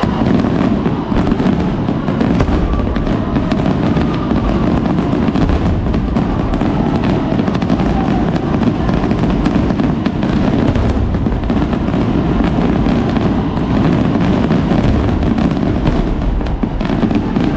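A dense fireworks barrage that starts abruptly: rapid, overlapping bangs and crackling in a continuous volley with no break.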